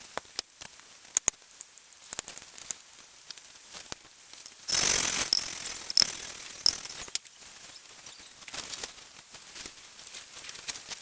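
Valve being hand-lapped into its seat in a cylinder head with grinding paste: scattered metallic clicks and taps, and a loud gritty rasp lasting about a second near the middle.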